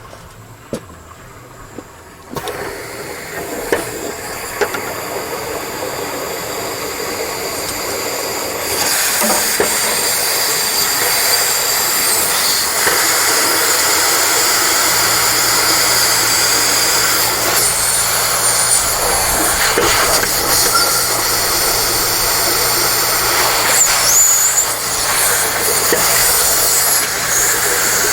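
Compressed air hissing steadily as it is blown through the vinegar in the water heater to stir up sediment. It starts about two seconds in and gets louder near nine seconds, and a low steady motor hum joins about halfway.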